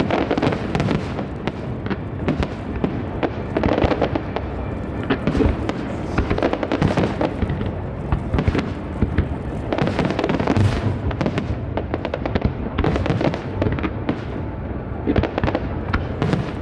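Aerial fireworks display: shells bursting and crackling in a rapid, continuous string of reports, many each second without a break.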